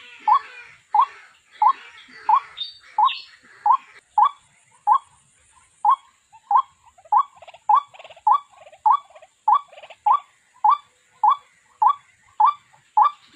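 White-breasted waterhen calling: the same short, sharp note repeated steadily, about three notes every two seconds.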